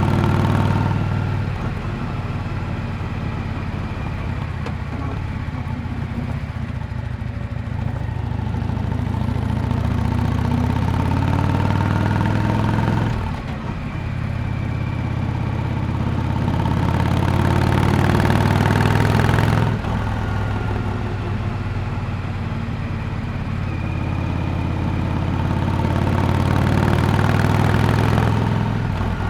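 Yamaha Drag Star 400 Classic's V-twin exhaust note while riding, swelling and easing with the throttle. The note breaks off briefly about 13 seconds in and drops suddenly about 20 seconds in.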